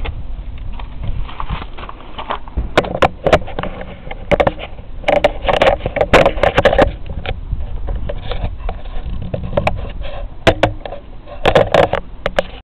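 1975 British Seagull 40+ two-stroke outboard motor running in a water-filled bin, with a steady low rumble and frequent sharp knocks and clatters. It gets louder twice, for a couple of seconds about five seconds in and again near the end.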